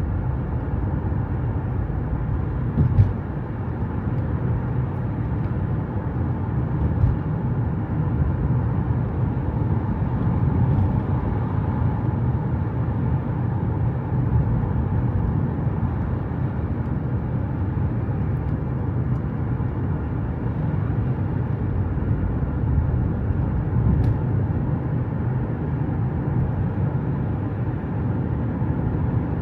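Steady road and engine noise of a car driving, a continuous low rumble with a few faint clicks.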